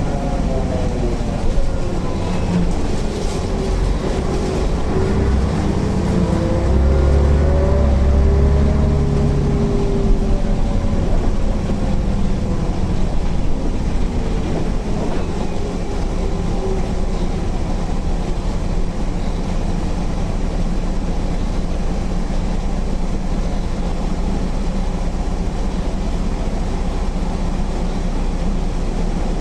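MAN NL 262 city bus's diesel engine and ZF 5HP 600 automatic gearbox on the move: a whine falls in pitch over the first few seconds, rises again with a heavier low rumble about seven to ten seconds in, then settles into a steady drone.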